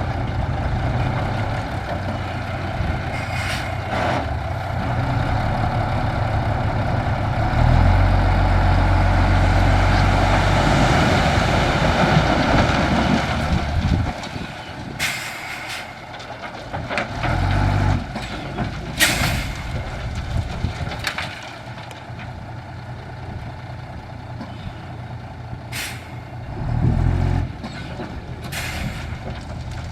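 A heavy dump truck's diesel engine runs. It is revved harder for several seconds midway, then settles to a lower run. Several short, sharp hisses of air from the truck's air brakes come in the second half.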